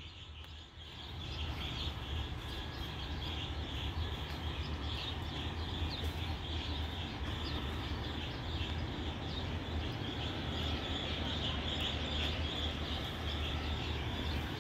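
Small birds chirping many times in quick, overlapping calls, over a steady low hum.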